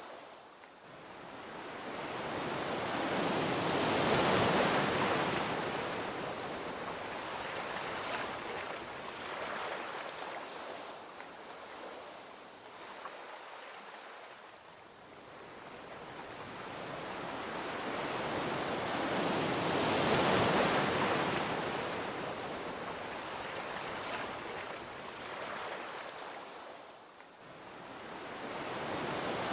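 Gentle ocean waves washing onto a beach: two slow surges, each swelling over a few seconds to a peak and then ebbing away, with a third building near the end.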